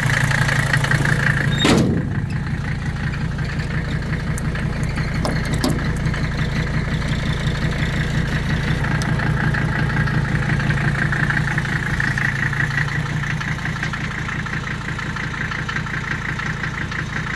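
Old Mercedes-Benz five-cylinder diesel engine idling steadily. A single sharp click about two seconds in.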